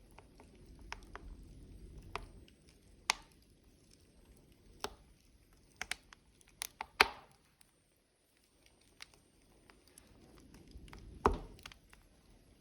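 Burning wood logs crackling, with sharp pops at irregular times, the loudest about seven seconds in and another near the end, over a soft low rush of flame.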